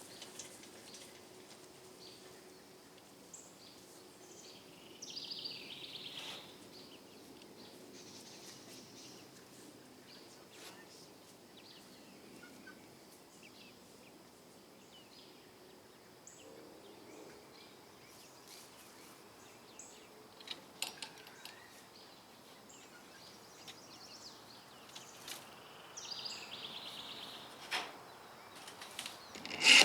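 Quiet outdoor background with scattered light clicks and knocks. There are two brief scratchy rattles, about five seconds in and again near the end, and a sharp knock at the very end.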